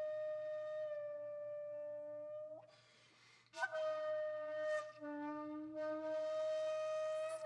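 Background music: a solo flute holding long, sustained notes. It breaks off briefly about three seconds in, then comes back with a sharp attack and small bends in pitch.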